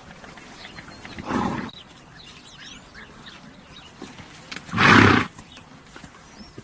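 A horse blowing air out noisily twice, the second much louder; faint bird chirps between.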